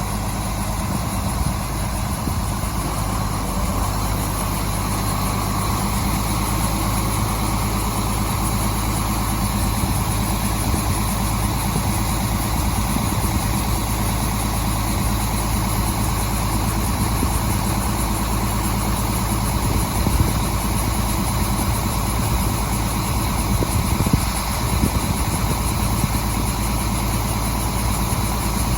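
Harvest machinery running steadily: a constant engine drone with mechanical noise that neither rises nor falls.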